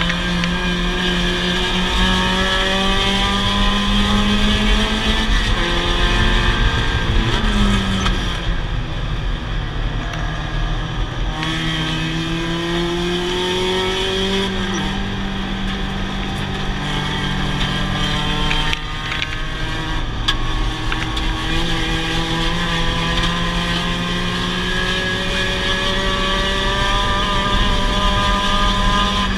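Mazda Miata race car's four-cylinder engine at full racing effort, heard from inside the cockpit: its note climbs steadily under acceleration, falls back at gear changes and braking several times, then climbs again.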